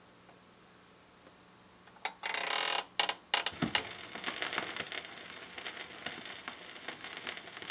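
Surface noise from a 45 rpm vinyl single as the stylus enters the lead-in groove: a short scrape about two seconds in, a few sharp pops, then steady crackle with many small clicks.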